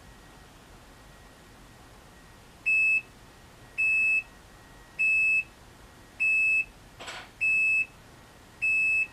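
RCA RPW160-B portable washing machine's end-of-cycle signal: six identical high electronic beeps, evenly spaced about a second apart, starting a few seconds in, signalling that the wash and spin cycle is done. A single short click falls between the fourth and fifth beeps.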